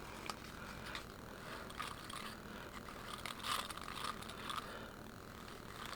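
Bristles of a handheld scalp massager brush scrubbing through damp hair and over the scalp, a faint irregular scratching and rustling.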